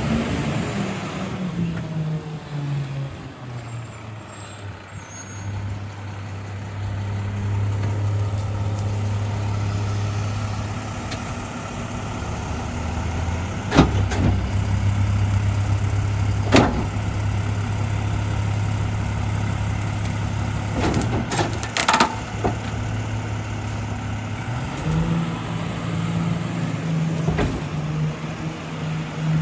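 Garbage truck's diesel engine running steadily while it packs, its revs dropping in the first couple of seconds and rising again near the end. Several sharp cracks or pops are heard in the middle, about 14, 16 and 21 to 22 seconds in.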